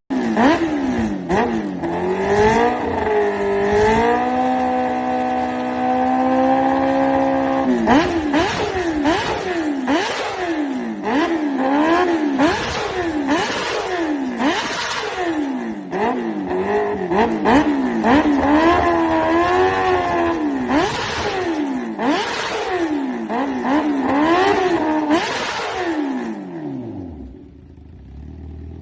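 Kawasaki Ninja H2-series supercharged inline-four motorcycle accelerating hard. The engine note climbs and then drops sharply again and again, about once a second, as it shifts up through the gears, with a few seconds of steady high revs in between. Near the end it winds down and fades.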